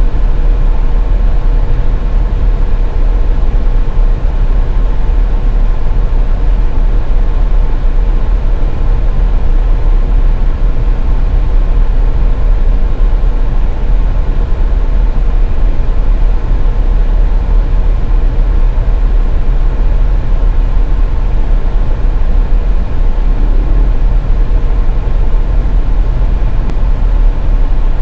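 Car driving on a highway: a steady, loud low rumble of road and engine noise with a faint steady hum.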